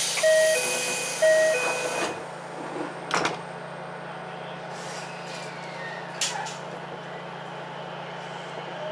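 Door-closing sequence on an Ichibata 7000-series electric railcar: a repeating two-note electronic chime for about two seconds, then the sliding doors shutting with a knock about three seconds in. A sharp click follows about six seconds in, over the railcar's steady electrical hum.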